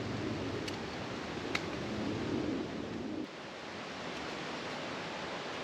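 Knife shaving a wooden stick while a fork is carved, with a few faint sharp ticks in the first two seconds; the scraping drops away about three seconds in, leaving a steady outdoor hiss.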